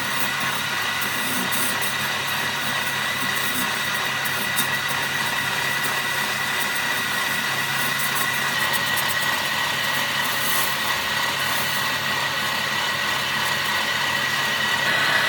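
A power tool running steadily with a constant high-pitched whine over a low hum.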